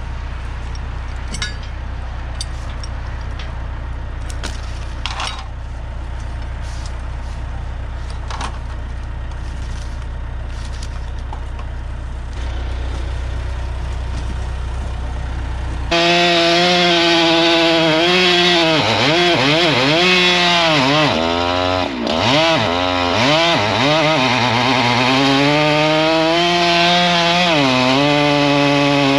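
A low steady engine hum with scattered clicks, then, starting suddenly about halfway through, a two-stroke chainsaw running at high revs, its pitch dipping and rising again and again as it cuts into wood.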